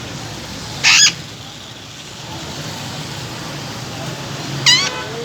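A rose-ringed parakeet (green Indian parrot) gives two short, shrill calls, one about a second in and another near the end, over a steady low background hum.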